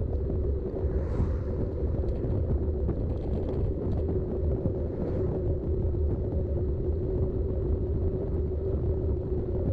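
Riding noise of a Specialized Rockhopper mountain bike on Schwalbe tyres: a steady low rumble from tyres rolling and wind on the camera, with a steady hum over it.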